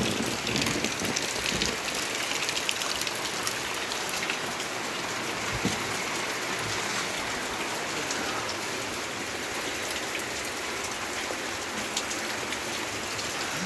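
Steady monsoon rain falling, an even hiss with many sharp ticks of single drops striking.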